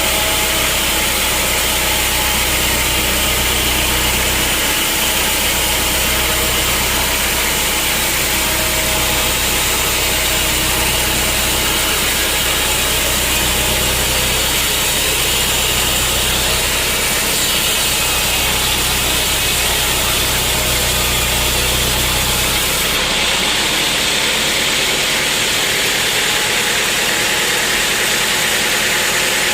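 Sawmill machinery running steadily, a constant mechanical noise with a low engine hum. The hum and the high hiss change about 23 seconds in.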